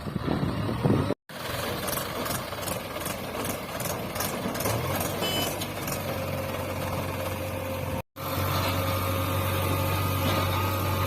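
Diesel engine of heavy earthmoving machinery running steadily. A quick run of evenly spaced high ticks is heard about two seconds in, and a steady low hum settles in about halfway through. The sound drops out abruptly twice.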